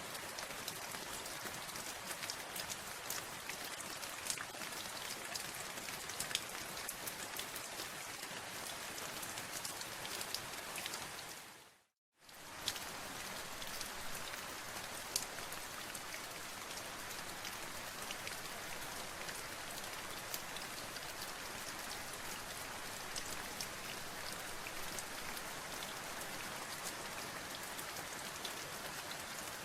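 Steady rain falling, an even hiss with many small separate drop ticks. A little under halfway through it fades down to a moment of silence, then resumes at the same level.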